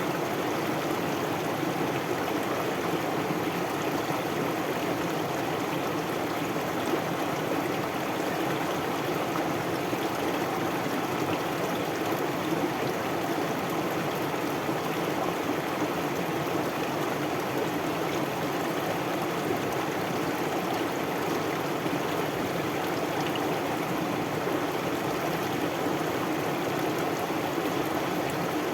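Flowing river or stream water, a steady rushing and burbling.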